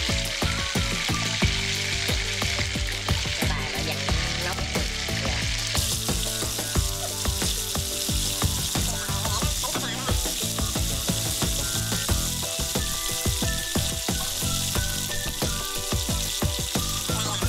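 Chicken wings sizzling as they shallow-fry in hot oil in a nonstick frying pan, while wooden chopsticks turn the pieces. The sizzle is steady and grows brighter about six seconds in.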